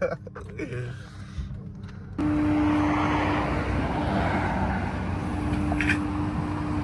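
Steady motor vehicle noise with a constant hum, starting abruptly about two seconds in after a quieter stretch.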